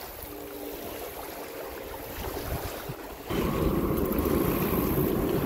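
A distant train crossing a trestle bridge over the river, heard as a steady low rumble that comes in suddenly about three seconds in, louder than the quieter outdoor background before it.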